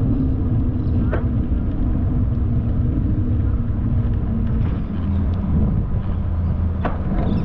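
Steady low rumble of road traffic and riding noise picked up from a moving bicycle, with two brief clicks, one about a second in and one near the end.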